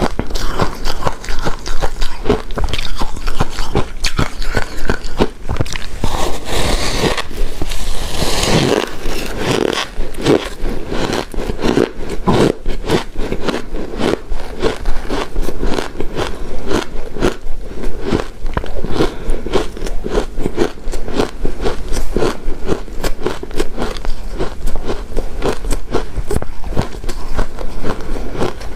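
Close-miked eating of shaved ice dessert: rapid crunching and chewing of icy mouthfuls, with a longer scraping sound about eight seconds in.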